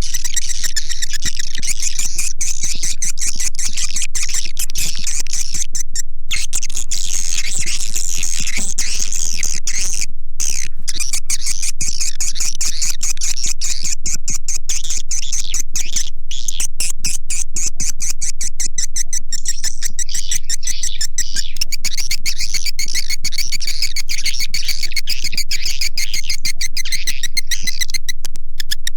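Recorded swiftlet calls: a dense, continuous chorus of high twittering and rapid clicking. It is a lure call played to draw swiftlets into a nest house.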